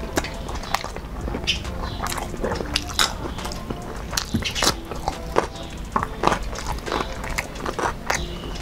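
Close-miked mouth sounds of people eating by hand: irregular chewing, lip smacks and sharp clicks, with a bite into a cucumber slice about halfway through.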